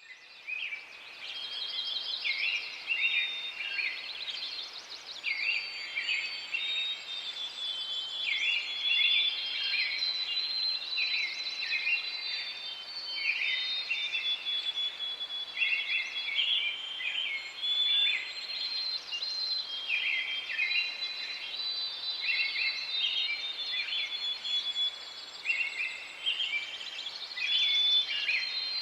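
Birds chirping and singing continuously, many short high calls overlapping with some held whistled notes.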